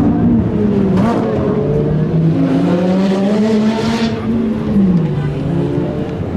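Ferrari engine running, its pitch rising about two and a half seconds in, then dropping back near five seconds.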